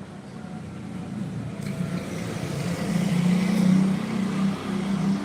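A motor vehicle's engine approaching, growing steadily louder over the first three to four seconds and then staying loud and close.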